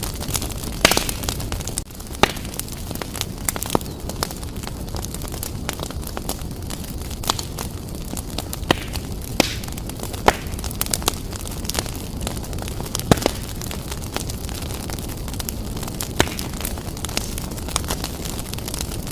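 Wood fire burning vigorously in a fireplace: a steady rushing hiss with frequent irregular crackles and several louder sharp pops.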